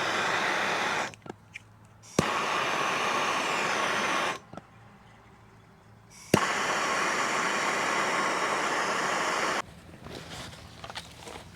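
Kohler CH-25 V-twin engine running steadily, heard close up in three short stretches that start and stop suddenly, with quieter gaps between them.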